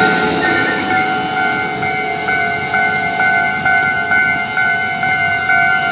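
Railway level crossing warning bell ringing in a steady repeating pattern, about two strokes a second, over the fading noise of a passing train.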